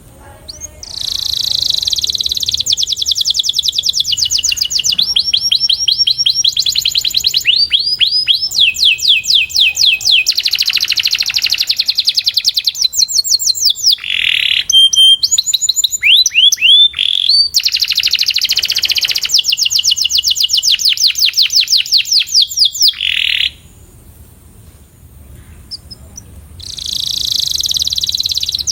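Canary singing a tutor song of long, fast trills, each phrase a rapid run of repeated notes that changes every second or two. The song breaks off about 23 seconds in and starts again near the end.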